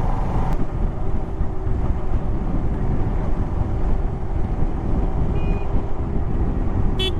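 Kawasaki Ninja 650 motorcycle's parallel-twin engine running steadily under way, mixed with a steady rumble of road noise. A brief click sounds near the end.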